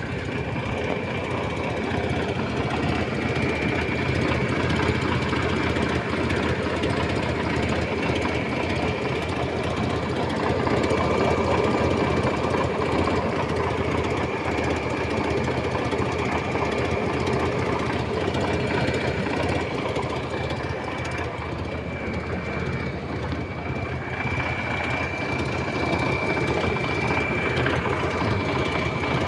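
Old Ford engine idling steadily while it warms up, with a thin high whine running over the rumble.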